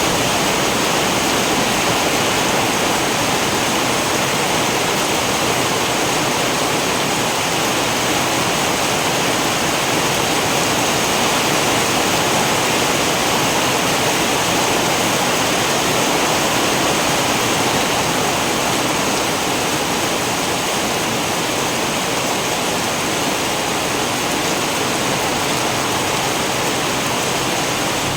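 Steady heavy rain, a dense even hiss with no distinct drops or thunder standing out.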